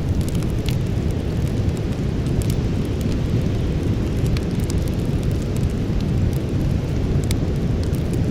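Campfire burning: a steady low rumble with sparse, sharp crackles and pops of burning wood every second or so.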